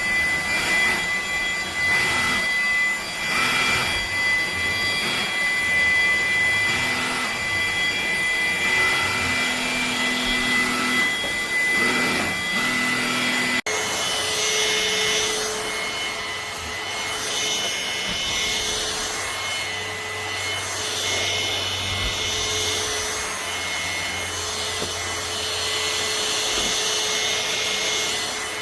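MBYULO 450 W cordless stick vacuum running, its motor giving a steady high whine over a rushing airflow, surging every second or two. About halfway the sound cuts out for an instant and the whine comes back at a different pitch.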